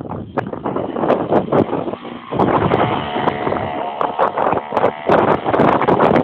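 Minibike's small engine running, with wind buffeting the microphone; the engine's pitched note comes through most clearly about halfway through.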